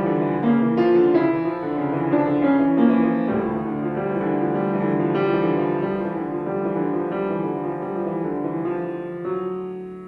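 Solo piano playing a classical piece, with chords and a melody line. Near the end a held chord dies away.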